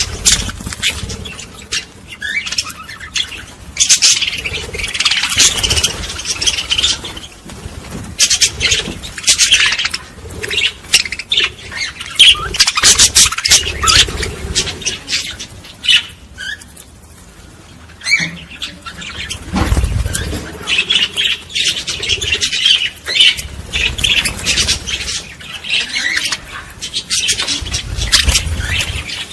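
A flock of small birds chirping and squawking in a busy, continuous chatter, with a brief lull a little past the middle.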